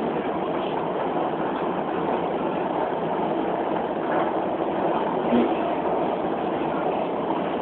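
Steady noise of a Beijing Subway Line 4 train heard from inside the carriage, an even, unbroken rumble of wheels and car noise.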